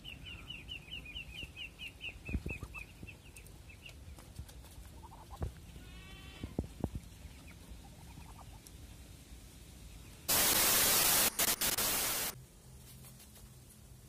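A bird chirping in a quick run of short, high notes, about five a second, for the first four seconds, with a few faint calls and thumps after. About ten seconds in, a loud rush of noise lasts about two seconds and then cuts off.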